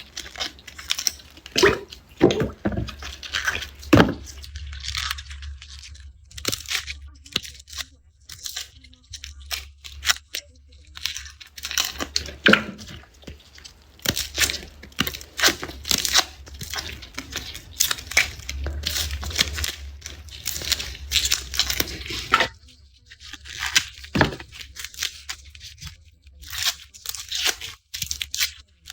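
Garlic cloves being peeled by hand, the dry papery skins crackling and tearing in irregular bursts.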